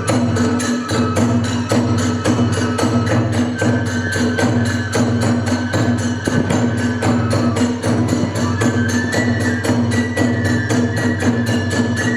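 Kagura hayashi music: drums and hand cymbals keeping up rapid, even beats under a high melody line, probably the flute.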